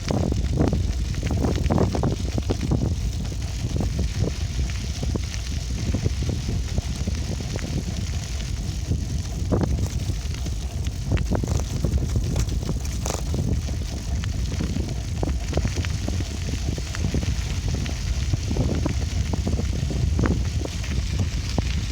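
Riding a bicycle: a steady low rumble of wind and rolling on the microphone, broken by frequent small knocks and rattles from the bike going over the surface.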